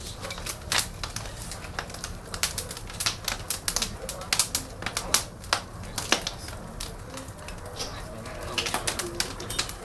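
Large wood bonfire crackling, with irregular sharp pops and snaps over a low steady rumble.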